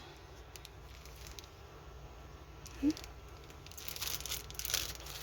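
Plastic packaging of a diamond painting kit rustling and crinkling as it is handled, busiest in the last second and a half, with one short pitched squeak about three seconds in.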